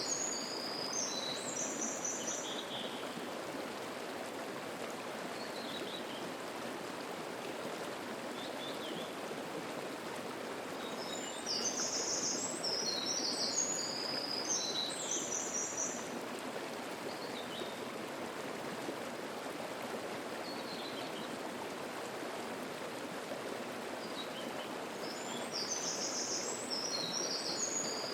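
Mountain stream water rushing steadily over rocks. A songbird sings high, quick phrases of notes in three spells: at the start, about halfway through, and again near the end.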